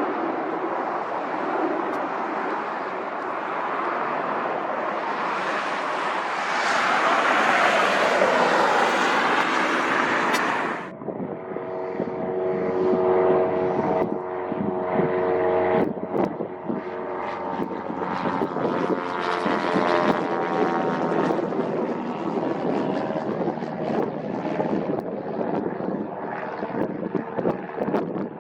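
Lockheed C-130 Hercules turboprops passing close and loud, with a sweeping change in pitch as the aircraft goes by. After a sudden cut about 11 seconds in, a steadier propeller drone with several held tones, broken by crackles of wind on the microphone.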